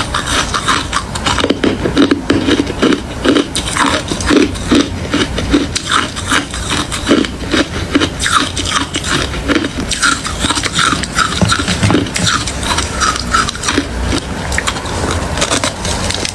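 A person chewing mouthfuls of hard ice close to the microphone: a steady stream of rapid crunches, several a second.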